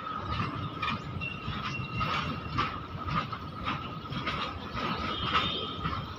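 Loaded BOXN open goods wagons rolling past, their wheels knocking irregularly over the rail joints, with a steady high squeal running underneath.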